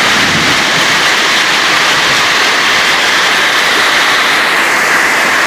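Hail and heavy rain falling hard, a loud steady hiss without let-up.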